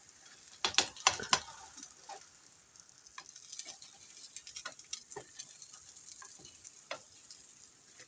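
Omelette frying in butter with a light sizzle. A spatula clacks and scrapes against the frying pan as the omelette is worked loose and flipped: a cluster of clacks about a second in, then scattered ticks.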